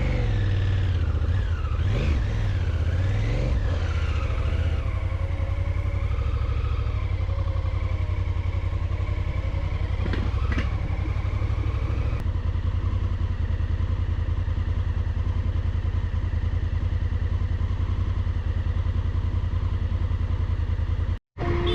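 Honda Africa Twin's parallel-twin engine running under way, heard from the bike: the engine note rises and falls with changing revs for the first few seconds, then settles into a steady cruise.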